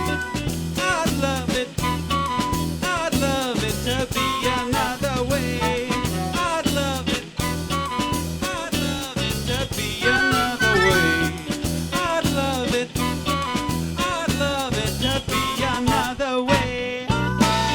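Live band playing an instrumental passage: drum kit and bass keep a steady beat under a wandering lead melody. The drums drop out briefly near the end.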